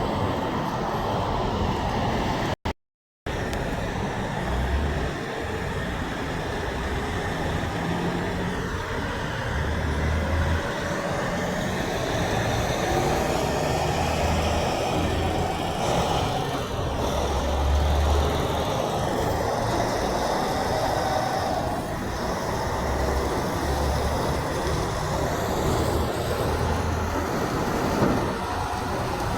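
Road traffic passing: cars and trucks making a steady tyre and engine noise with low rumbling swells. The sound cuts out completely for about half a second around three seconds in.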